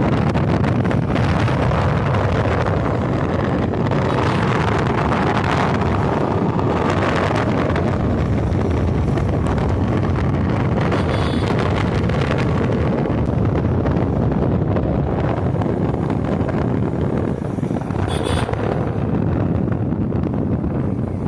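Wind rushing over the microphone of a moving motorcycle, with the bike's engine running underneath, loud and steady.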